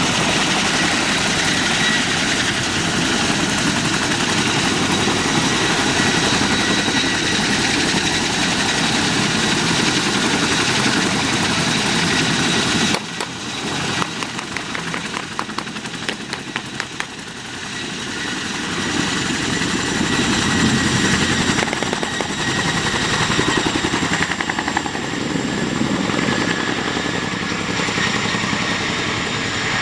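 Helicopter running: a steady turbine whine over loud engine and rotor noise. About thirteen seconds in it changes abruptly to a quieter stretch of rapid clattering, then the engine noise builds again.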